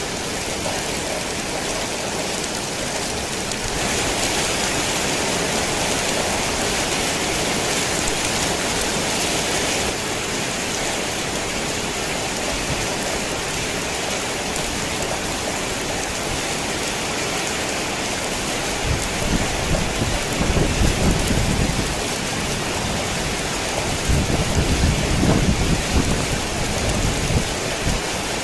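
Heavy rain pouring on a worn tin roof, a steady dense hiss. Twice in the second half, low thunder rolls in and swells for a few seconds.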